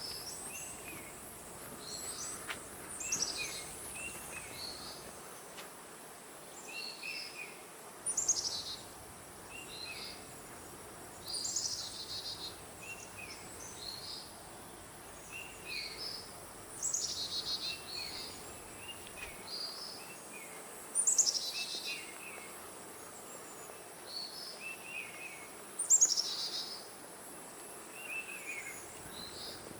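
Forest birds calling: one bird repeats a loud, quick descending call every four to five seconds, and shorter chirps come in between, over a steady high insect drone.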